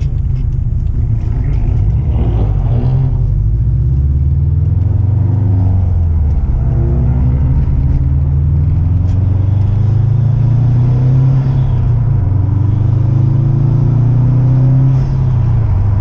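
Car engine running under load, its note rising and falling several times as it accelerates and eases off.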